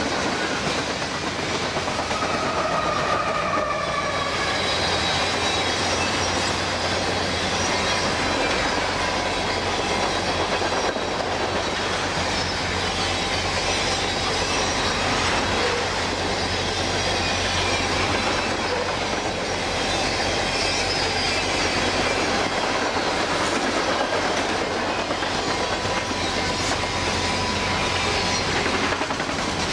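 Freight cars of a long CN freight train rolling past: steady noise of steel wheels running on the rails, with thin high squeals coming and going.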